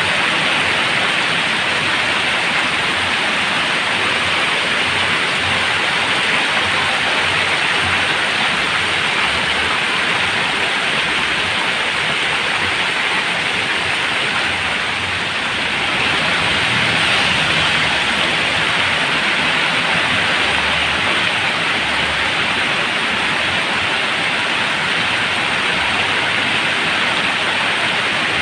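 Heavy rain falling steadily, a dense even hiss of downpour, swelling slightly about two-thirds of the way through.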